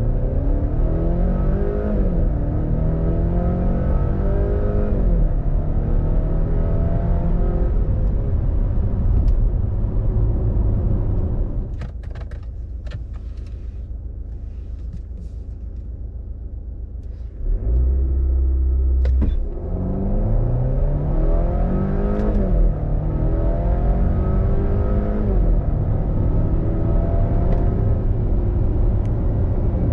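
2023 Volvo XC90 B6's 2.0-litre turbocharged four-cylinder engine under hard acceleration, its pitch climbing and dropping at each upshift of the eight-speed automatic, twice in quick succession, before settling to a steady run. After a quieter stretch in the middle, a second hard acceleration climbs through two more upshifts.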